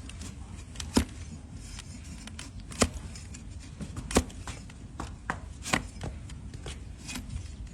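A blade cutting and paring a donkey's hoof horn: a series of sharp cuts and snaps about a second or so apart, with the loudest strokes near three and four seconds in.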